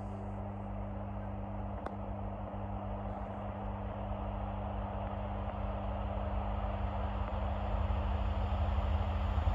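Diesel freight locomotive approaching, its engine running with a steady low note that grows steadily louder.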